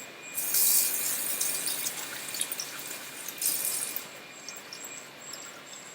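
Water running from a kitchen tap while hands are washed under it. It starts about half a second in and stops about four seconds in.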